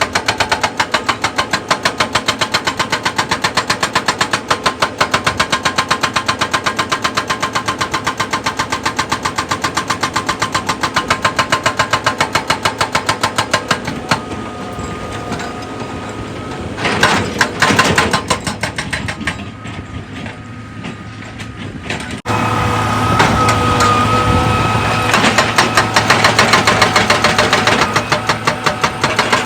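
Heavy excavator machinery running, with a fast, even rapid-fire knocking that stops for several seconds midway and starts again near the end. An engine hum with steady tones carries through the pause, and the sound changes abruptly about two-thirds of the way in.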